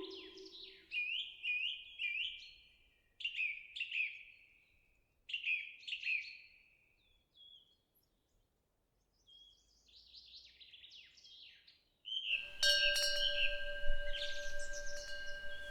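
A songbird chirping in repeated short, falling calls, with a brief lull midway. About twelve seconds in, a metal temple wind bell rings and its long, steady tone carries on to the end.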